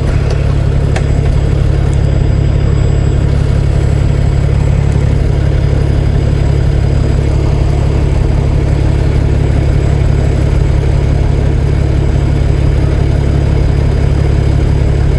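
Semi-truck diesel engine idling steadily with a deep, even low hum.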